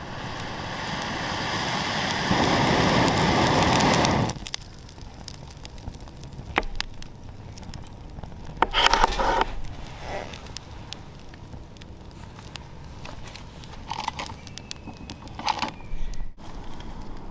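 Campfire crackling, with scattered sharp pops and a few brief louder bursts of crackle. A loud rushing noise swells over the first four seconds and stops abruptly.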